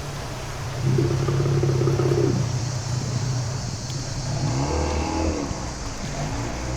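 A motor engine running steadily, its pitch shifting up and down from about four and a half seconds in.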